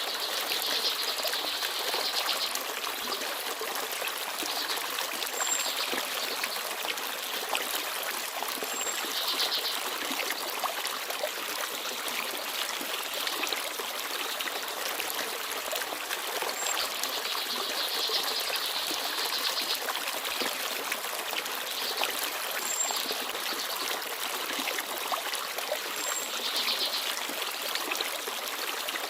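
Forest stream babbling and trickling over stones, a steady, even flow of water. A small bird gives a short, very high call now and then.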